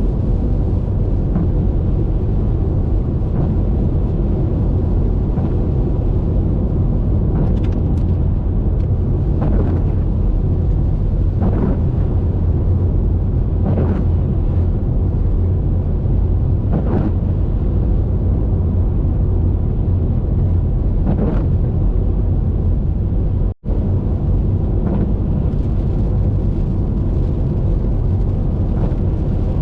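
Steady low rumble of a car driving on a wet highway in rain: road and wind noise, with faint short swishes recurring every few seconds. The sound cuts out for a split second about three quarters of the way through.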